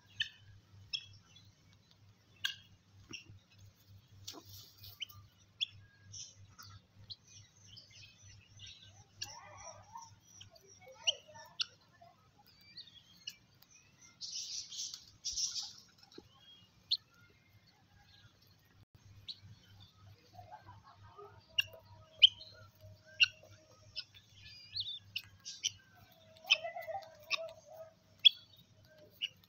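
Birds chirping: scattered short, sharp chirps, with a brief harsh rasp about halfway through and a few drawn-out lower calls near the end.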